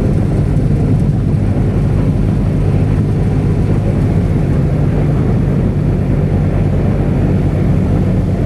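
Airboat's engine and rear air propeller running steadily, a loud unbroken low drone.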